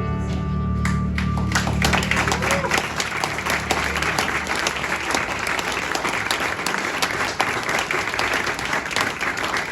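A band's last chord, with strummed acoustic guitar just before, rings out and fades over the first few seconds. An audience starts applauding about a second in and keeps clapping steadily.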